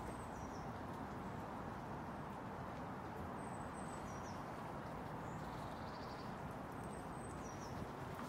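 Faint steady outdoor background noise with a small bird calling three times, each call a short high chirp followed by a quick falling note.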